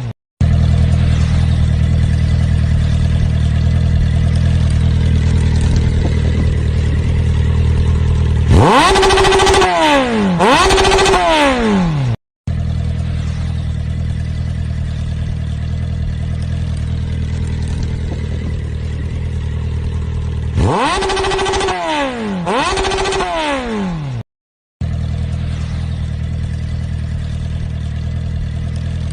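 Motorcycle engine idling steadily, then revved twice in quick succession, the pitch climbing and falling away each time. The same sequence repeats, broken by brief dropouts to silence where the audio cuts.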